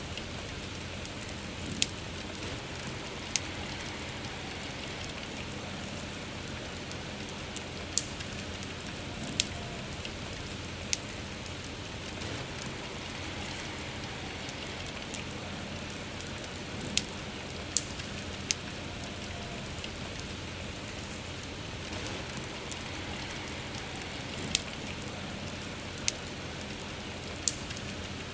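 Steady soft rain hiss with a wood campfire crackling, giving sharp pops at irregular intervals, a dozen or so.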